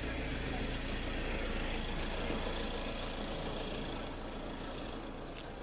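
A motor vehicle engine idling: a steady low rumble under general street noise.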